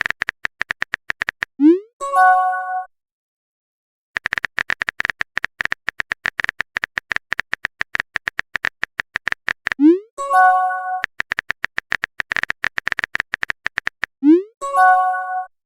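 Phone keyboard typing clicks in quick runs of roughly ten taps a second. Three times they are interrupted by a message-alert sound: a short rising swoop followed by a brief chime of several ringing tones.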